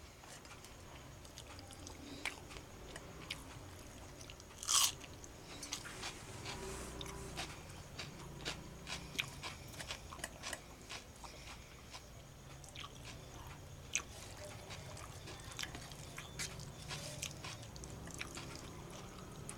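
Close-up chewing and mouth smacking of a person eating rice and curry by hand, with many small wet clicks and one louder sharp smack about five seconds in.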